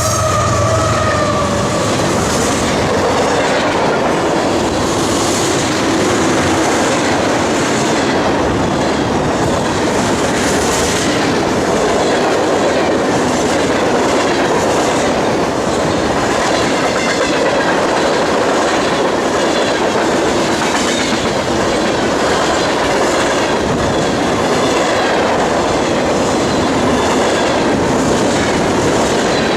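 A long train rolling past close by, its car wheels clacking steadily over the rail joints. A tone dies away in the first second.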